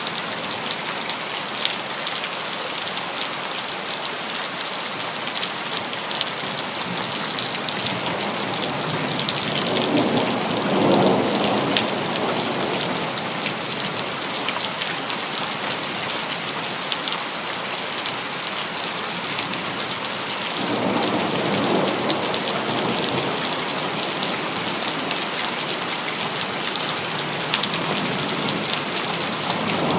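City rain falling steadily, with many fine ticks of drops striking hard surfaces. Thunder rumbles twice, about a third of the way in and again past the middle, and a third rumble begins right at the end.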